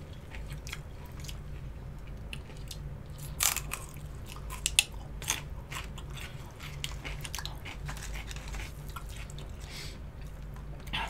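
Close-miked chewing and biting of crunchy food, celery sticks and crispy chicken wings, with irregular crunches, a few louder ones around three and a half and five seconds in, over a low steady hum.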